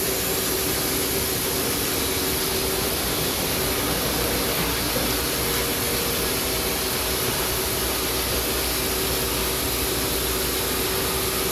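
Band sawmill running steadily: a constant machine noise with a steady hum that does not change.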